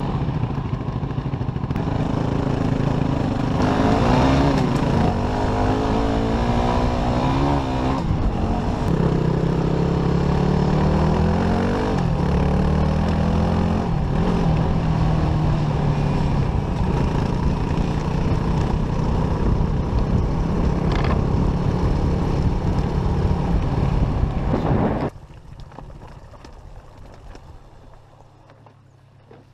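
Dirt bike engine running and being revved, its pitch rising and falling, then cutting off suddenly about 25 seconds in.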